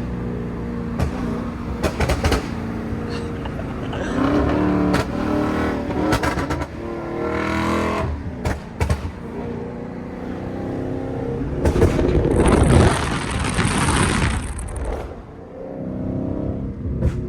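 Tuned Dodge Charger SRT 392 Daytona's 6.4-litre HEMI V8 running on the road, revving up through the gears with its pitch rising in the middle, then a louder stretch with a hiss a couple of seconds before the end.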